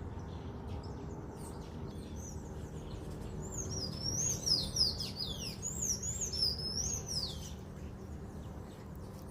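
A songbird singing: a run of quick, high chirping phrases that swoop down and back up, strongest from about three to seven and a half seconds in, over a faint steady low background hum.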